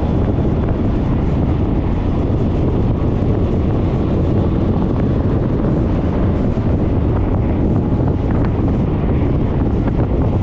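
Wind rushing and buffeting over an action-camera microphone on a moving Suzuki Burgman 400 scooter, steady throughout, with the scooter's running and road noise mixed underneath.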